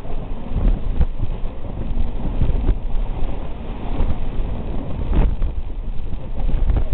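Passenger train running at speed, heard from inside the carriage: a steady low rumble of wheels on track with wind on the microphone, and a few sharp knocks from the wheels and couplings, the clearest about five seconds in.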